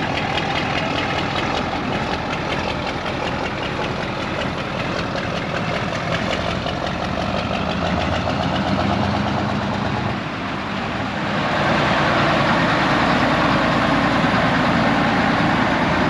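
A motor vehicle's engine running steadily, getting louder and brighter about eleven seconds in.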